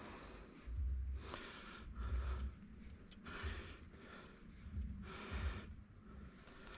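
Insects, crickets or similar, droning steadily on one high pitch. Over them come short, soft rustling and scraping swells with dull low thumps, about once a second.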